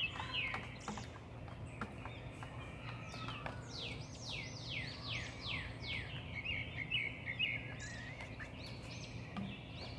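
Birds chirping: a run of high, quick chirps that each slide down in pitch, thickest a few seconds in, with a low steady hum underneath.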